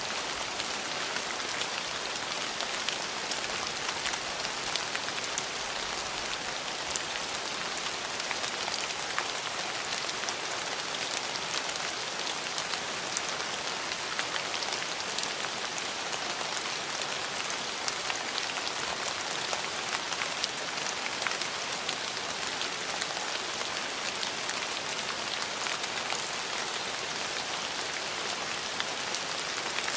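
Steady rain falling, a constant hiss with many small scattered drop ticks.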